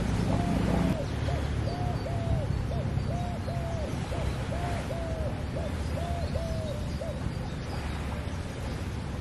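A bird hooting in a steady repeating phrase of two longer notes and a short one, over and over, stopping about seven seconds in, with faint high chirps of small birds.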